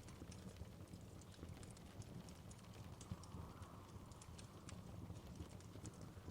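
Wood fire crackling in a fireplace: frequent small irregular pops and snaps over a low steady rumble.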